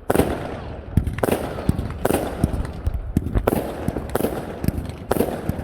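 Fireworks going off in quick succession: sharp bangs about twice a second, each trailing off briefly, over a steady rumble and crackle of more distant bursts.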